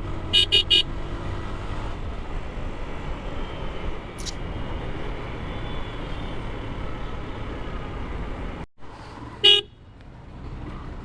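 Busy road traffic heard from a moving motorcycle, with a steady rumble throughout. A vehicle horn gives three quick short toots just after the start, a faint toot about four seconds in, and one loud short honk near the end.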